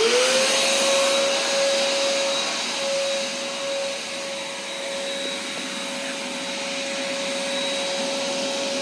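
Shop vac switched on, its motor whine rising quickly as it spins up and then running steadily with a loud rush of air. It is set to blow, pushing air through its hose into a car's tailpipe to pressurise the exhaust for a soapy-water leak test.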